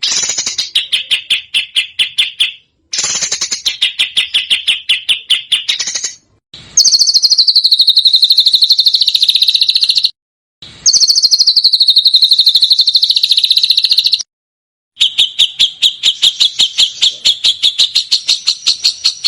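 Recorded songbird song: five rapid trills of quickly repeated high notes, each a few seconds long and separated by abrupt short gaps, the middle two opening higher and dropping to a steady pitch. This is the fast 'tembakan' style of phrase used to train caged songbirds.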